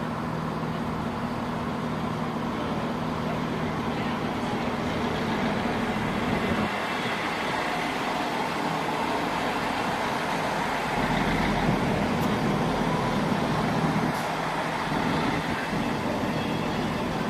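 Diesel train engine running, with a steady low hum and a broad rushing noise that swells partway through.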